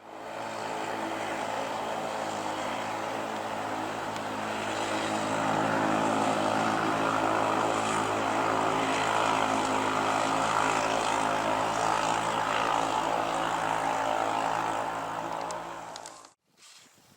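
A steady engine drone held at a constant pitch, starting and cutting off abruptly.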